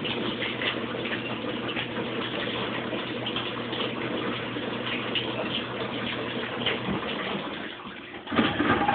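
Rinse water running into a Kenmore Oasis top-load washing machine's tub: a steady rush of filling water with a low hum under it, dying down near the end.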